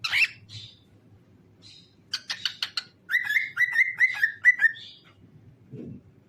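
Cockatiel singing: a sharp call at the start and a few short chirps, then a quick string of clicking chirps followed by a run of about six repeated whistled notes, each sliding downward, ending on a short high chirp. A short low, muffled sound comes near the end over a faint steady hum.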